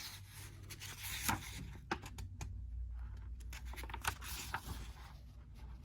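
Paper rustling and scraping with several sharp clicks: the pages of a storybook being handled and turned.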